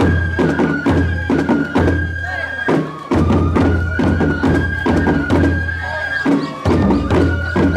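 Traditional Japanese festival music (hayashi): a high flute playing held notes that step between two pitches, over a quick run of sharp percussion strikes and a heavy low accompaniment that drops out briefly twice.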